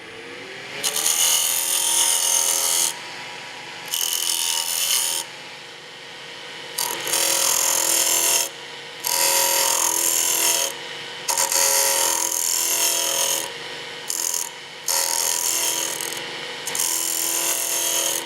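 Wood lathe spinning up, then running steadily while a turning chisel cuts the spinning wooden spindle in about seven passes of a second or two each, a harsh scraping over the motor hum. The passes take down the last high spots on the turned handle.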